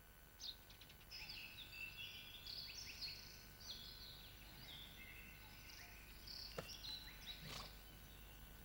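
Faint birdsong: a quick run of short chirps and trills that starts about a second in and thins out near the end, over a faint steady background hiss, with a couple of soft ticks late on.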